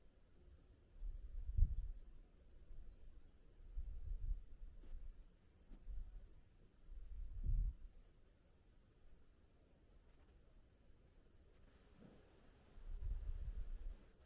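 Wind gusting on the microphone in low rumbles, several times, with a faint, rapid, high-pitched pulsing going on steadily underneath.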